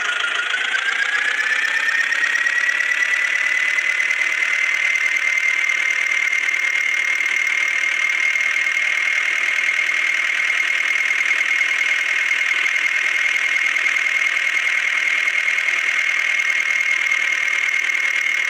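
Eicher tractor's diesel engine running hard. Its pitch dips briefly at the start, climbs back over the first few seconds and then holds steady.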